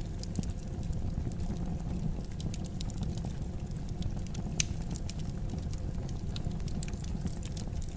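Fire crackling in a fireplace: a steady low rush of burning with irregular sharp crackles and pops, one a little louder about halfway through.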